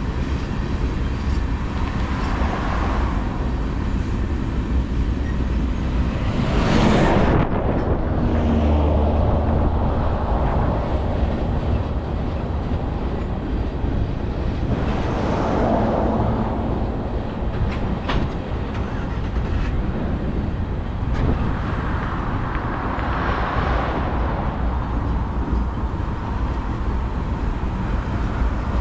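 Long BNSF manifest freight train rolling slowly past, a steady rumble of wheels on rail. Three louder swells rise and fade as road vehicles pass.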